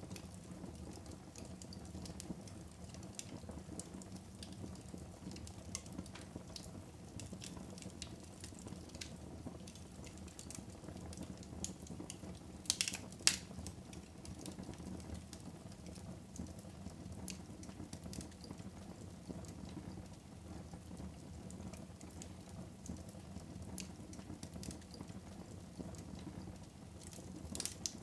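Wood fire burning in a fireplace: a low steady rumble of flames with scattered crackles, and a few louder pops about halfway through.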